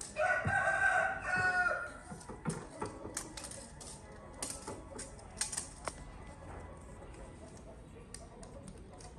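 A bird's call, pitched and held for about a second and a half with a short break partway, right at the start. Scattered light clicks and taps follow.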